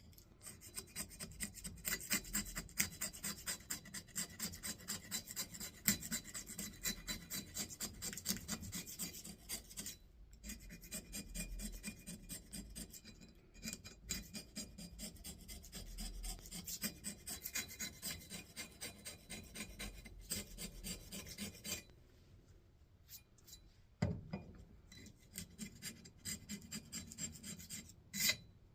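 Hand wire brush scrubbing paint off a steel axe head in quick back-and-forth strokes, about three a second. The scrubbing stops briefly a few times and pauses for about two seconds past the twenty-second mark.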